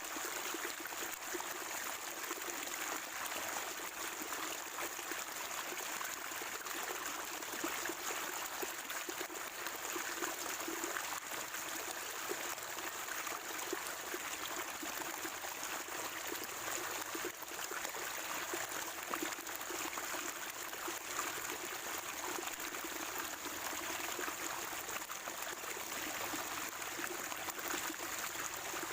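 Water at a natural spring, trickling and gurgling steadily without letting up.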